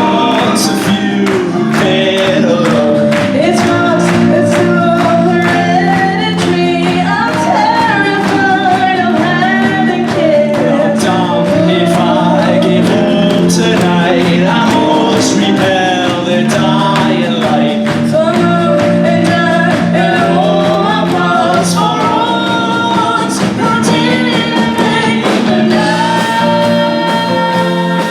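Live band music with singing: a sung melody over sustained chords and regular drum hits.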